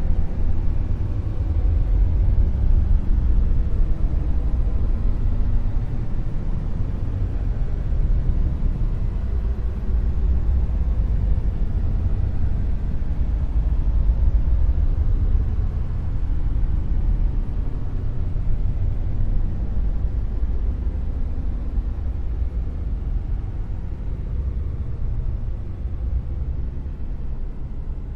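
Dark noise: a steady, deep rumbling hiss with most of its weight in the low bass and little treble, easing off slightly toward the end.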